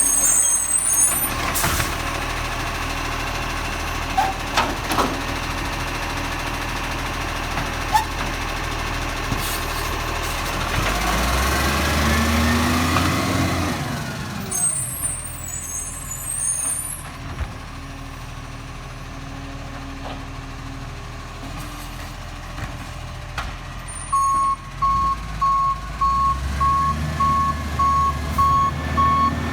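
Garbage truck's diesel engine running, rising in speed for a couple of seconds about halfway through. Near the end its reversing alarm starts, an even string of beeps about two a second.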